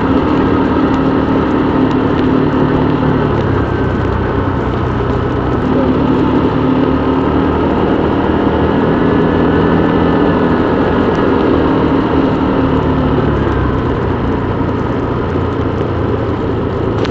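Motorbike engine running steadily while riding, with small changes in pitch as the speed eases and picks up.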